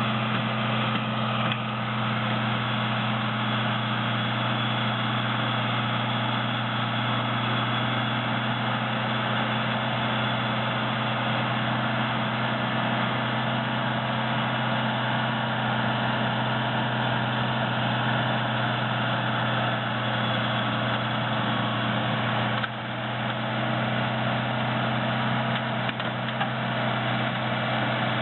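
Engine of a heavy snow-removal machine running steadily at an even speed, a constant low drone. The sound dips briefly about three-quarters of the way through, then carries on the same.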